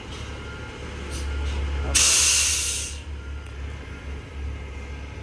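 A sudden loud hiss of compressed air, typical of a truck's air brakes releasing, about two seconds in and lasting about a second, over a low steady engine rumble.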